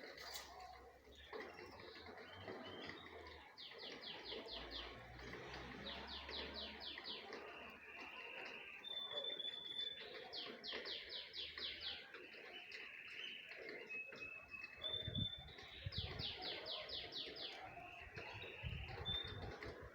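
Birds calling: four bursts of rapid chattering notes, each about a second long, with single thin whistled notes in between.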